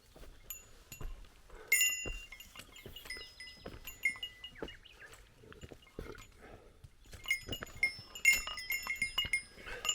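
Small metal bear bell jingling in irregular bursts with the walker's steps, each strike ringing with the same few high bell tones, over soft footfalls.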